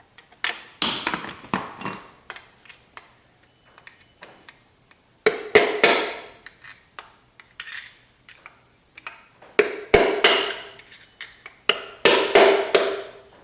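Hammer blows on the metal parts of a seized small-block Chevy 350 engine, in four bursts of quick strikes with a metallic ring, separated by short pauses.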